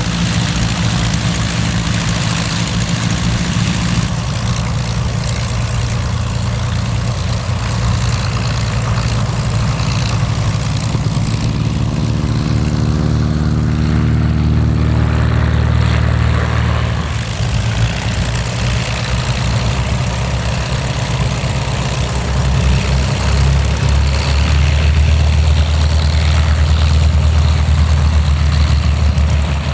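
WWII fighter's liquid-cooled V-12 piston engine running, a steady low engine note with the propeller's sound over it. The sound changes abruptly twice, about 4 and 17 seconds in, and grows a little louder over the last few seconds.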